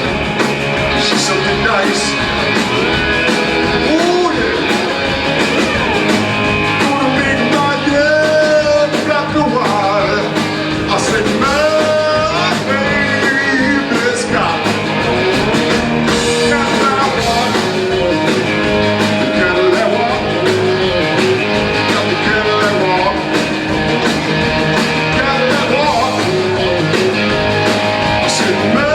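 Live rock and roll band playing an instrumental passage: a guitar lead with bending notes over a steady drum beat.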